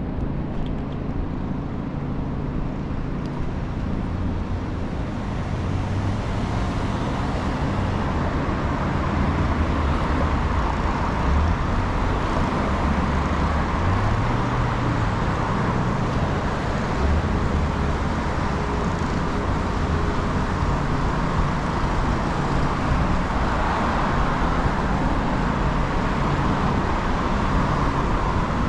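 City traffic and road noise heard from a moving scooter: a steady low rumble under a constant hiss, growing a little louder after about six seconds.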